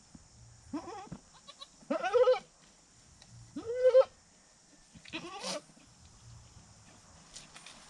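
Goat bleating four times, about a second and a half apart; the second and third calls are the loudest.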